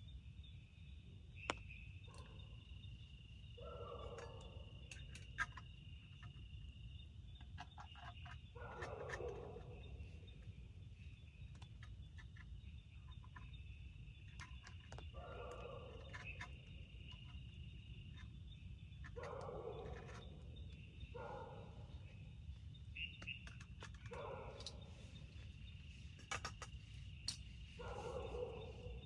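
Forest night ambience: an animal calls over and over, each call about a second long and a few seconds apart, over a steady high drone and a low rumble. A few sharp clicks stand out, the loudest about a second and a half and five seconds in.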